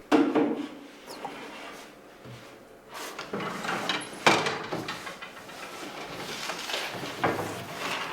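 Handling noise in a working bakery: a sharp knock, then scraping and sliding, and a second sharp knock about four seconds in.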